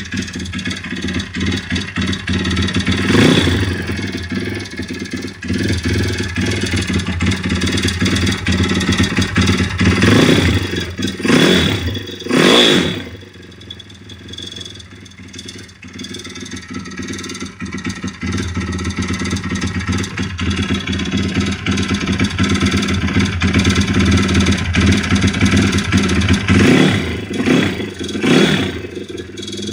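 YX 160 single-cylinder four-stroke engine running, blipped up in revs several times and settling back to idle between. Through it runs a metallic knock and ringing whose cause the owner has not found.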